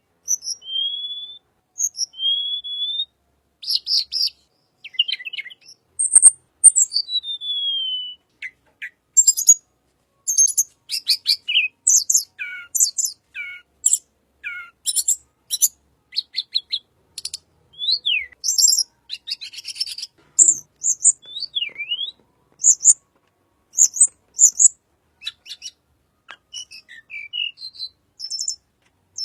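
Tledekan bird singing: a varied run of clear high whistles, rising and falling pitch glides, and quick buzzy trills and chips, broken by short pauses.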